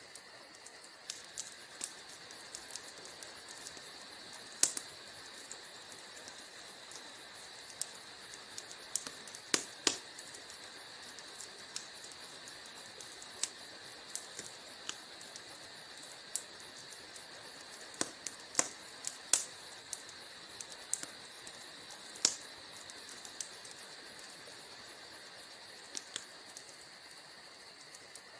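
Wood fire crackling in a fireplace: irregular sharp pops and snaps over a steady high hiss, with the loudest pops about five seconds in, around ten seconds, and again around eighteen to twenty-two seconds.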